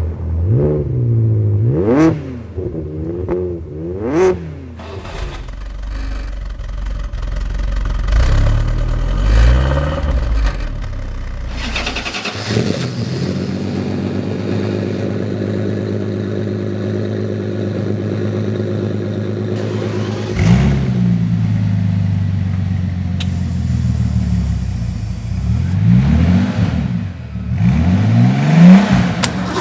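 Car engine revved in quick blips, its pitch jumping up and falling back several times. It then runs at a steady pitch for several seconds, with more sharp revs near the end.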